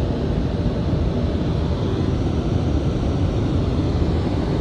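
WashTec car wash dryer blowers running, a steady even rush of air heard from inside the car.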